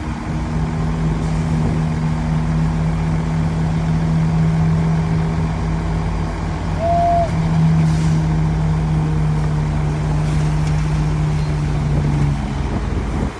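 Heavy diesel engine of an earthmoving machine running hard at a steady pitch, easing off near the end. A single short high beep sounds about halfway through.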